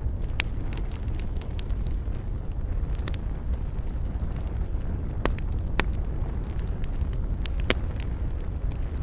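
Wood fire in a fireplace burning with a steady low rumble and irregular sharp crackles and pops, a few louder pops standing out.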